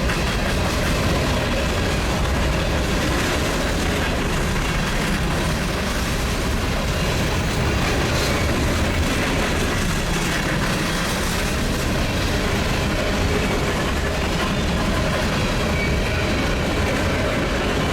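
Union Pacific empty coal train's hopper cars rolling past, with a steady rumble of wheels on rail.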